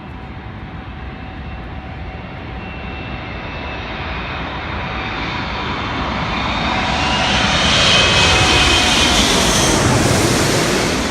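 Jet airliner flying over: engine noise with a faint high whine grows steadily louder, peaks about eight seconds in, then begins to fade.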